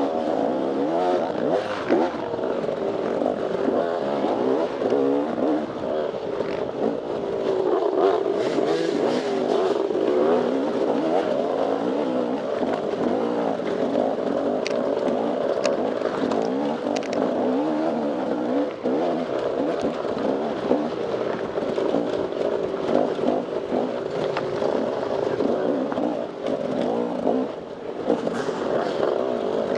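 Off-road dirt bike engine being ridden hard, its pitch rising and falling constantly as the throttle is worked on and off, with a few sharp clicks and clatter about halfway through.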